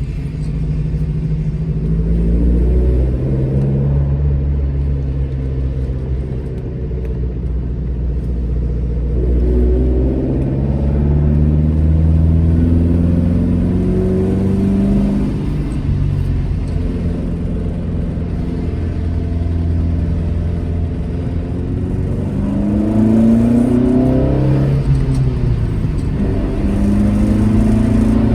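Alfa Romeo GT Junior's twin-cam four-cylinder engine pulling through the gears: the pitch climbs as it revs up, then falls at each upshift, about halfway through and again near the end, before climbing once more.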